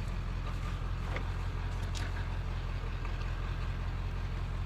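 Truck engine idling steadily, with a few faint clicks from the load being tied down.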